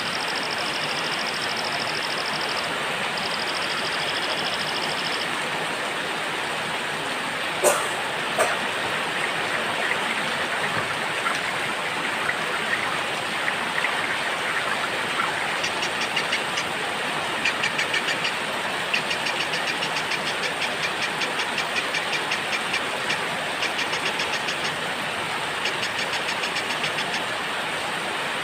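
Steady rain with small birds singing over it. A high, fast trill is heard for the first few seconds, two sharp clicks come about eight seconds in, and rapid repeated chirps come and go through the second half.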